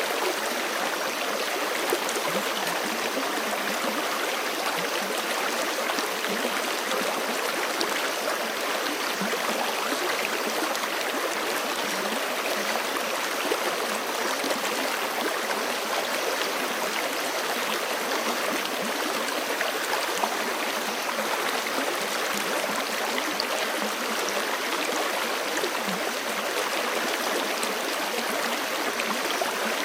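A forest creek running over rocks: a steady rush of water with gurgling and splashing, at an even level throughout.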